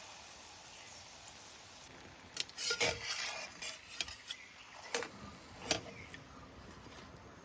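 Kitchen utensils clinking and knocking against pots and dishes in a run of sharp clatters starting about two seconds in, over a steady soft hiss.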